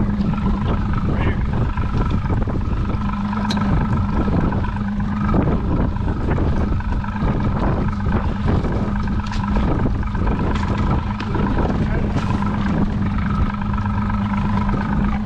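Boat motor running steadily, under heavy wind buffeting on the microphone.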